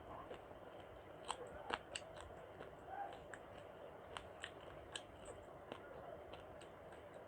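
Close-miked eating sounds: irregular wet mouth clicks and smacks of someone chewing khichuri with egg, brinjal, chicken and hilsa fish.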